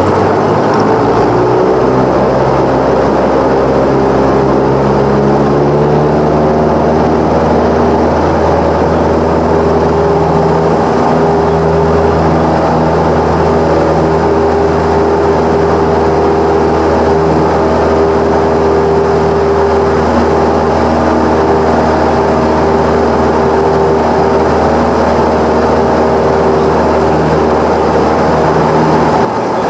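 Cessna 172's piston engine and propeller running loud and steady, speeding up over the first few seconds and then holding an even pitch.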